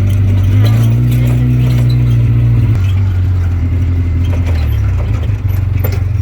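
Off-road vehicle engine running. Its pitch rises about a second in and drops back near three seconds, then it settles into a rapid, lumpy pulsing near the end.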